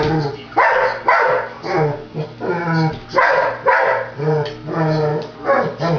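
Pet dog barking repeatedly, about two barks a second, each bark short and pitched.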